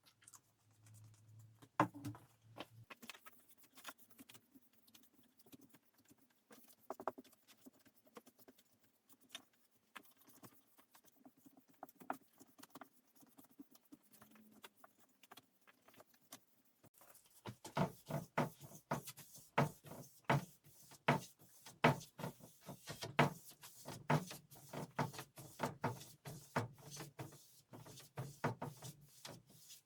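Hand work on a wooden piece of furniture: scattered light clicks and taps, then a little past halfway a quick run of rubbing strokes, several a second.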